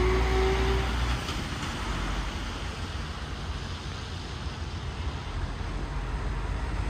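Steady rush of a rain-swollen, overflowing stream in flood. A car's engine tone fades out about a second in.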